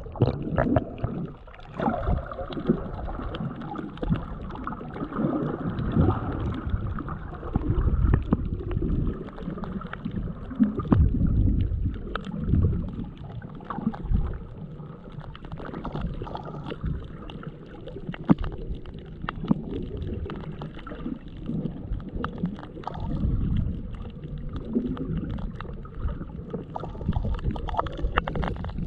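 Underwater sound picked up by a GoPro Hero7's built-in microphone, with the camera out of its waterproof case: low, swelling rumbles of moving water with many scattered short clicks.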